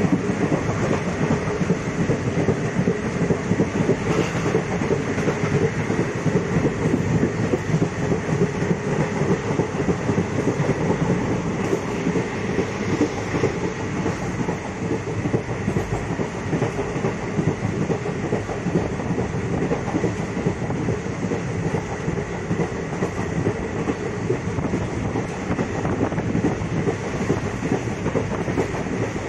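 Passenger train running at speed, heard from a coach through an open window: the steady, loud noise of the wheels running on the rails, unbroken throughout.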